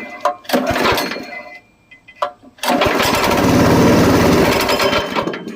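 208cc small engine on a chipper shredder being started: a couple of short bursts early on, then it catches and runs for about two and a half seconds before dying out. The owner takes this stalling as the engine not getting any gas.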